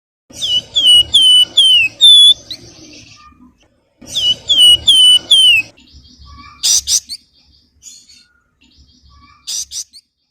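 Flamboyan (wergan Jawa, Javan fulvetta) singing: two quick runs of four or five clear, falling whistled notes, the nyuling song. These are followed by short harsh chattering bursts, once about seven seconds in and again near the end.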